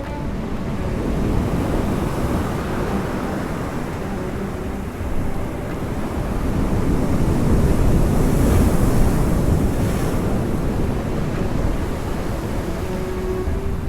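Sea waves rolling in and washing on the shore, swelling and easing, with the biggest wash about eight to nine seconds in. Wind buffets the microphone with a low rumble.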